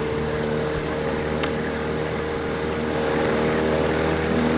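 Small boat's outboard motor running steadily, getting a little louder in the second half.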